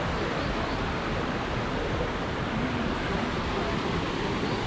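Steady rush of falling water, like a small waterfall splashing into a koi pond.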